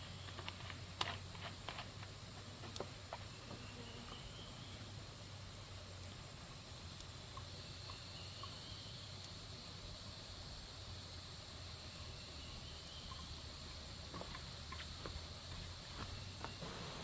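Faint forest ambience: a steady high insect drone that grows stronger about halfway in, a few faint short rising chirps, and scattered light clicks and knocks.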